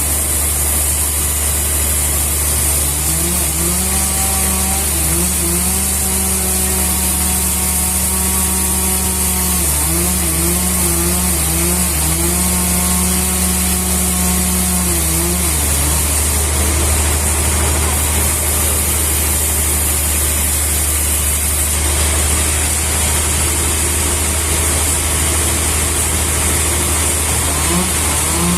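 Sawmill machinery running steadily under a constant low hum and a high hiss, with an engine-like tone whose pitch steps up and down as the load changes and fades out about halfway through.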